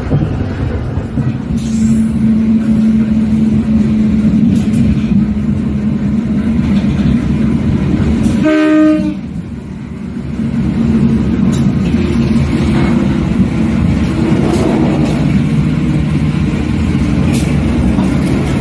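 Train of economy coaches hauled by a CC 201 diesel-electric locomotive running along the track: a steady rumble and drone with wheel clicks, and one short horn blast a little before halfway.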